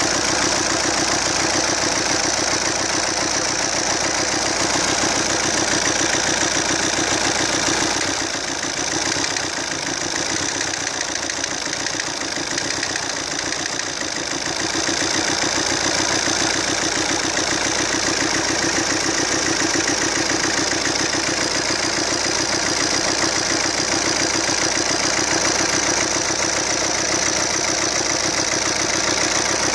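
Fiat Croma diesel engine running steadily at idle with a knock, which the owner points to as the fault. It goes a little quieter and thinner for several seconds about eight seconds in.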